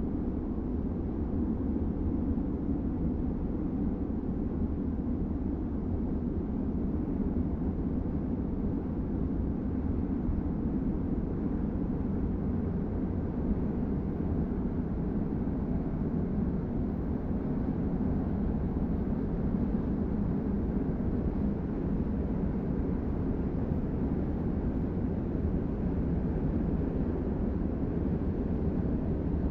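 Steady low outdoor city rumble with no distinct events.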